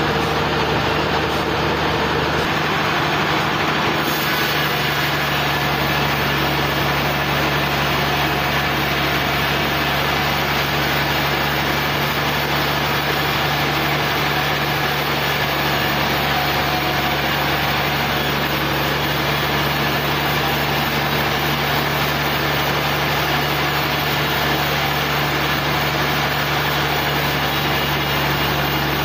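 Portable sawmill's engine running steadily, a constant mechanical hum that does not let up.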